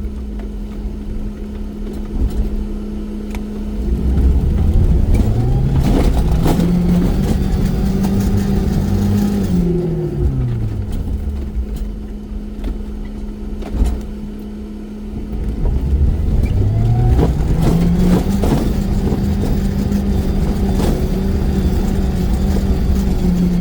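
Off-road vehicle's engine revving up and held at high revs for several seconds, then dropping back, twice, over a steady hum, with scattered knocks.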